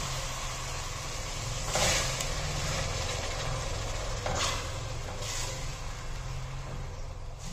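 Onion and ginger-garlic paste sizzling and bubbling in hot oil after water has been added, in a stainless steel pot, over a low steady hum. A silicone spatula stirs and scrapes the pot three times, the loudest about two seconds in.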